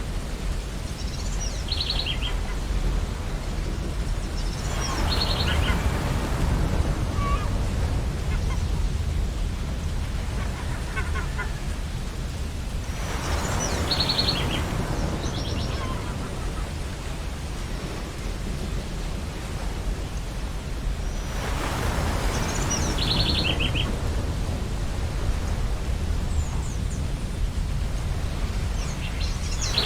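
Ocean waves on a beach: a steady low surf rumble with a wave washing in about every eight seconds, and gulls calling in short runs of high notes several times.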